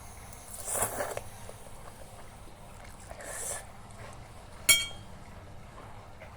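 Eating noodles: two short slurping noises, then one sharp clink of a utensil against the bowl, with a brief ring, a little before the end.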